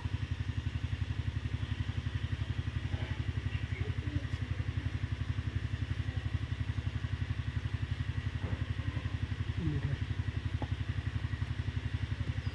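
A small motor or engine running steadily, a low drone that pulses about ten times a second.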